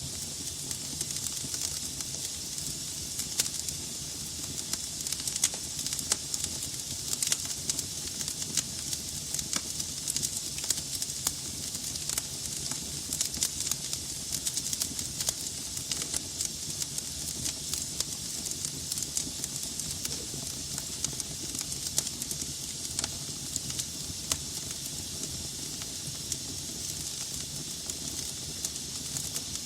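Wood logs burning in a fireplace, crackling: a steady hiss with frequent sharp pops and snaps at irregular intervals.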